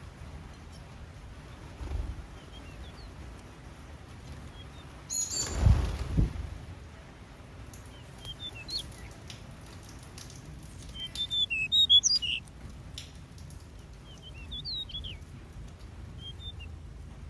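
Small aviary birds chirping sporadically with short, high calls, with a busier burst of chattering calls near the two-thirds point. About five seconds in, a brief louder flurry of wing flapping.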